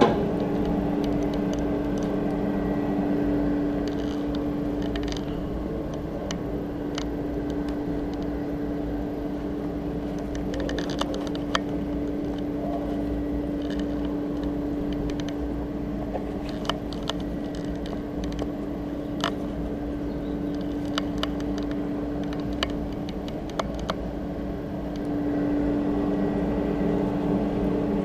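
Coal forge air blower running with a steady whirring hum, louder for the first few seconds and again near the end, with scattered light clicks and ticks over it.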